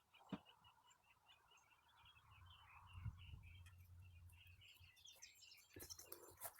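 Faint bird chirping: a quick, even run of short high chirps, about five a second. A low hum rises in the middle, with a single knock just after the start and a few clicks and rattles near the end.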